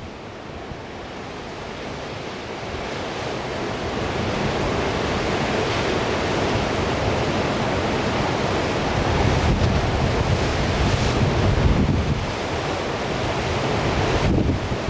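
Sea surf washing and breaking in a strong wind, with gusts buffeting the microphone in a low rumble. The surf swells up over the first few seconds, and the rumble is heaviest about two-thirds of the way through.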